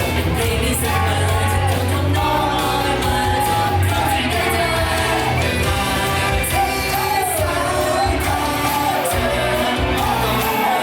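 Live J-pop/T-pop idol song: a sung melody over a loud backing track with a heavy bass beat, with audience shouts mixed in.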